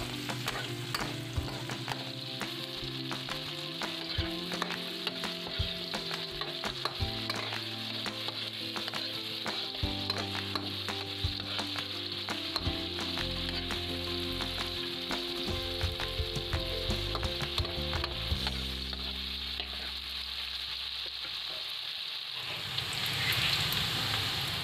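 Tofu cubes frying in oil in a metal wok, sizzling steadily, with a metal spatula clicking and scraping against the wok as they are stirred. The sizzle swells louder near the end.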